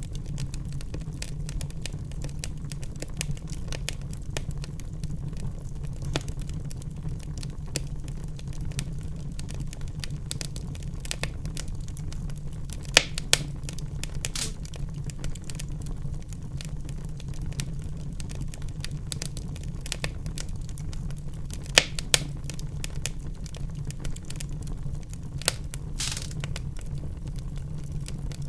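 Wood fire burning in a fireplace: a steady low rumble of the flames with constant crackling and scattered sharp pops, the loudest about 13 and 22 seconds in.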